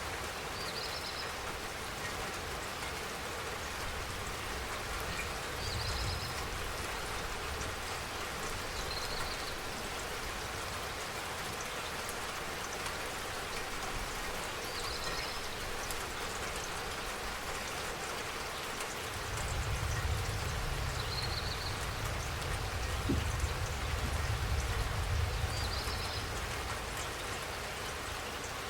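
Steady rainfall, drops falling evenly on surfaces. Faint short high chirps come every few seconds, and a low rumble swells for several seconds about two-thirds of the way through.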